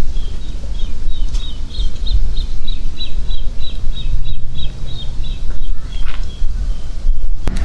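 A small songbird chirping a rapid series of short, high notes, about three a second, stopping about six seconds in. Under it, a loud low rumble of wind buffeting the microphone.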